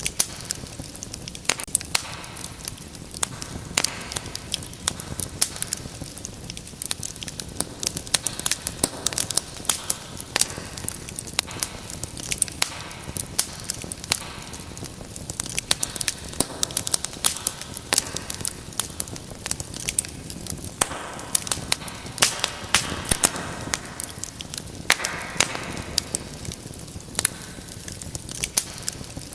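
Wood fire in a fireplace burning with a steady low rush and frequent sharp crackles and pops, busier at times.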